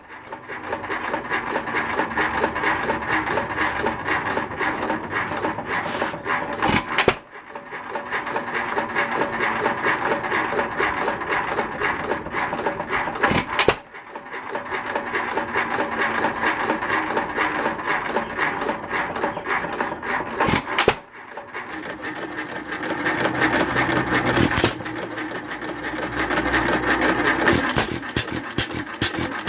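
Worthington 2.5 hp hit-and-miss engine running with a fast, steady mechanical clatter. It breaks off briefly about 7, 14 and 21 seconds in. From about 22 seconds in it runs heavier and lower.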